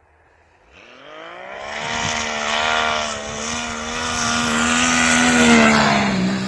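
Turbocharged Yamaha Sidewinder snowmobile engine with a cutout exhaust revving. It climbs in pitch about a second in, holds at high revs for about four seconds, then drops off near the end.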